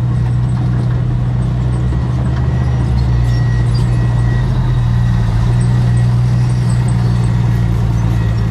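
Heavy diesel engine of earthmoving equipment running steadily with an even, low hum.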